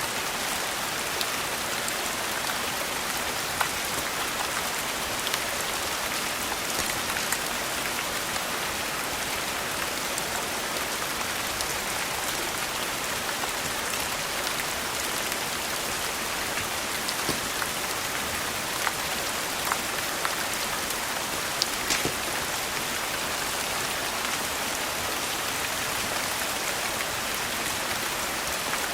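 Steady, even rain hiss with scattered sharp ticks, a few louder ones near the middle and about three-quarters of the way through.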